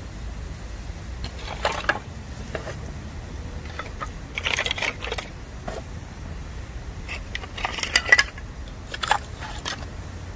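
Bamboo burning in a campfire, crackling with irregular clusters of sharp pops, the loudest about eight seconds in, over a low steady rumble.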